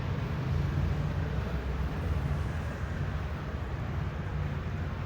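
Steady outdoor seafront ambience: a constant low rumble with an even hiss above it and no single sound standing out.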